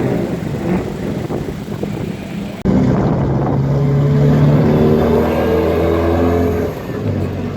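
Car engines running with steady, pitched engine tones. About two and a half seconds in, the sound cuts abruptly to a louder, closer engine, which holds a steady note before shifting near the end.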